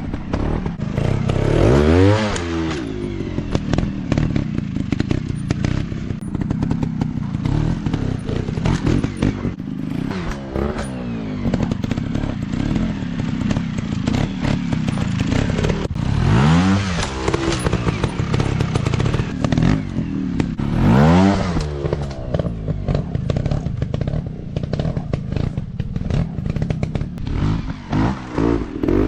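Trail dirt bike engines running hard off-road, revving up sharply and dropping back again and again, about five big rev-ups, with clattering and knocks over rough ground.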